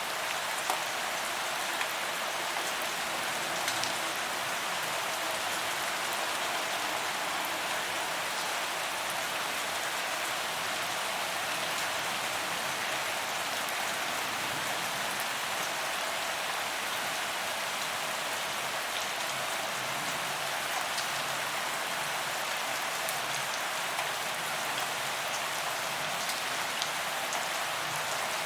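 Steady rain falling on a paved promenade, a constant hiss of drops with faint scattered ticks of individual drops hitting the pavement.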